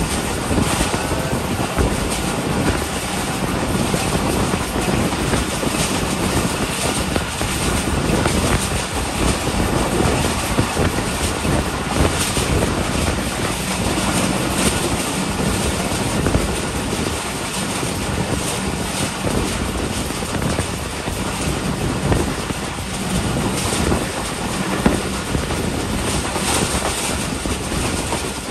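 Passenger train running at speed: a steady rush of wheel and wind noise with frequent sharp clicks from the rails.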